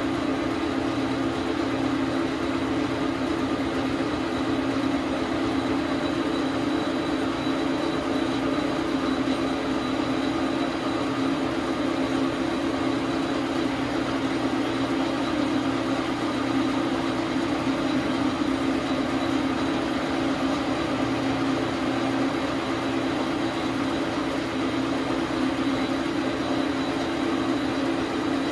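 Metal lathe running steadily, its motor and gear train giving a constant hum.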